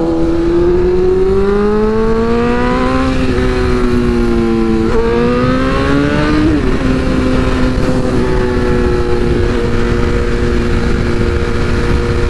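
Inline-four engine of a 2022 BMW S1000RR sport bike pulling hard with rising revs, with quick pitch changes about three and five seconds in as it shifts gear, then holding steady revs while cruising.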